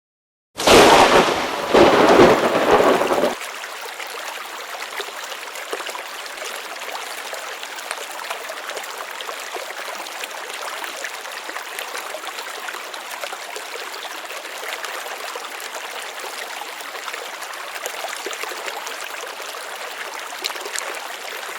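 A loud clap of thunder in two surges lasting about three seconds, then steady rain.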